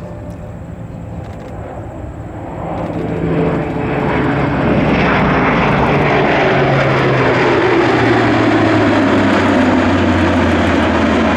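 Airbus A400M Atlas turboprop transport making a fast flyby on its four eight-bladed propeller engines. It grows louder over the first few seconds, then holds a loud, steady drone while the propeller tone slides lower in pitch as it passes.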